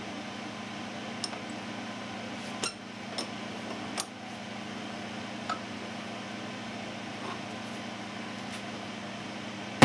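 Steel bars clinking lightly against one another and against the steel jaws of a bench vise as they are stacked and set in it: about five small metallic clinks spread over the first half, over a steady low hum.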